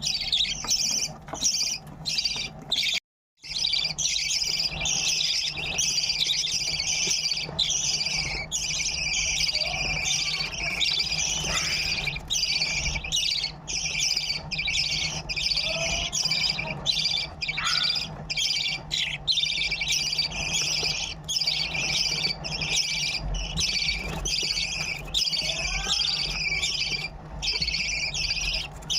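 Budgerigar chicks' begging calls: a dense, raspy chirping repeated several times a second almost without pause.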